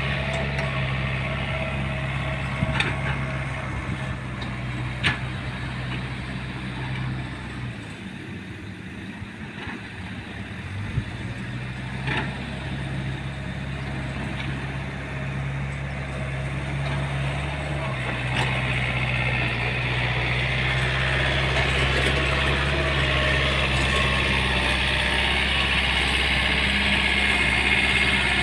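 Heavy vehicle's engine running under load as it tries to reverse out of slippery mud, its pitch dropping about 8 seconds in and picking up again around 18 seconds, with a few sharp knocks.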